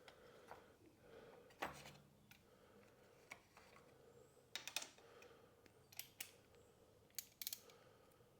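Faint scattered clicks and clinks of hand tools and parts being handled during work on a motorbike's front wheel, a few sharp ticks at uneven intervals over a low steady hum.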